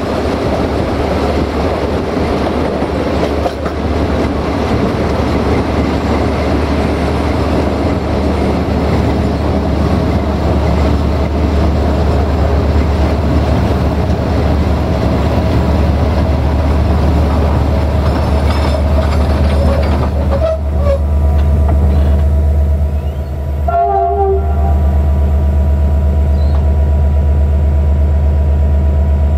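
Diesel-hauled passenger train rolling along, heard from a carriage window: a steady low hum under the wheel and rail rumble. Brief high tones cut in about twenty seconds in and again about twenty-four seconds in.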